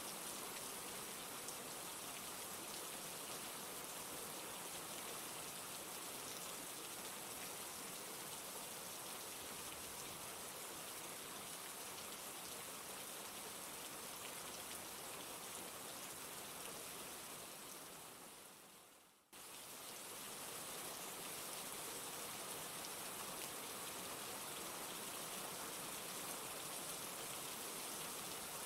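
Steady rain falling, an even hiss of drops. About two-thirds of the way through it fades down and cuts out for a moment, then comes straight back at the same level, like the seam where a rain recording loops.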